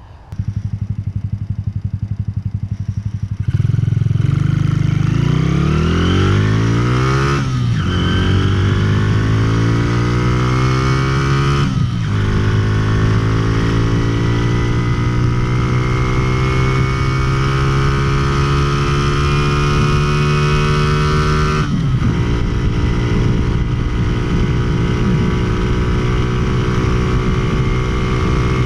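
Honda Cub's four-stroke single-cylinder engine ticking over, then pulled hard from a standstill at full throttle, revs rising through the gears. Three upshifts, each a brief break and drop in pitch, the last about three-quarters through, after which the engine holds steady high revs near top speed.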